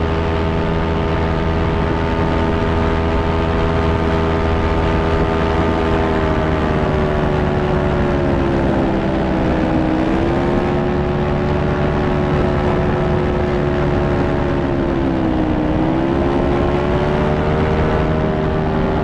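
A fan's motor and blades running with a steady whine, its pitch dipping and recovering twice, as if briefly loaded.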